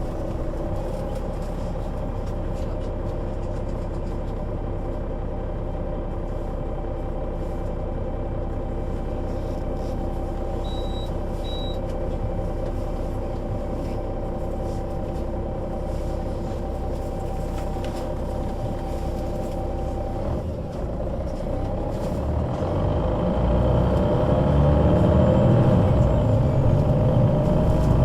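Solaris Urbino 12 III city bus with a Voith automatic gearbox, its engine running steadily, with two short high beeps about eleven seconds in. From about twenty-two seconds in, the engine and gearbox pick up, rising in pitch and getting louder as the bus accelerates.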